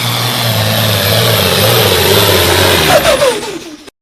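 Turbocharged diesel pickup truck running hard under load on a pulling sled, with a loud rushing exhaust and a low engine note that wavers. About three seconds in, the pitch falls away and the sound cuts off abruptly.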